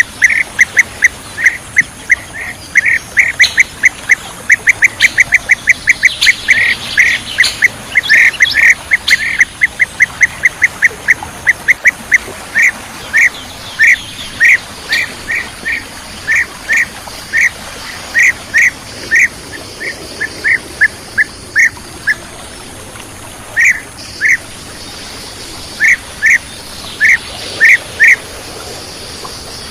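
Bee-eaters (kirik-kirik) calling: short, loud, repeated notes, a rapid run of several a second for the first twelve seconds, then slowing to about one a second. Fainter, higher calls sound behind them.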